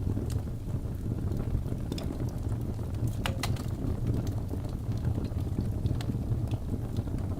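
Wood fire burning in a fireplace: a steady low rumble of the flames with scattered sharp crackles and pops from the logs, the loudest pair of pops about three seconds in.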